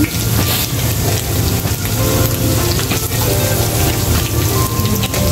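Pork belly cubes and minced garlic sizzling and crackling in hot oil in a nonstick wok, turned over with a fork.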